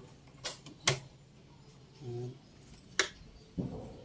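A few sharp clicks and taps of parts being handled on a sewing machine, the loudest about a second in, with a short low sound in the middle.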